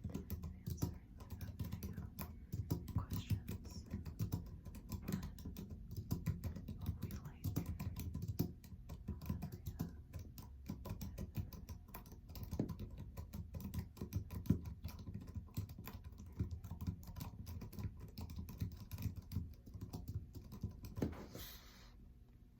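Computer keyboard being typed on, with fast, continuous key clicks that stop near the end.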